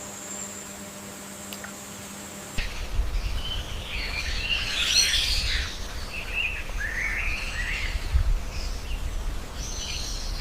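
Birds chirping and twittering in dense overlapping calls, starting abruptly about two and a half seconds in over a low rumble. Before that there is only a faint steady hum.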